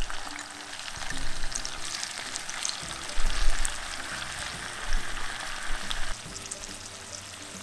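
Shrimp and mushrooms sizzling in hot olive oil in a small cast-iron skillet, just after the shrimp go in for a garlic ajillo. The sizzle drops away about six seconds in.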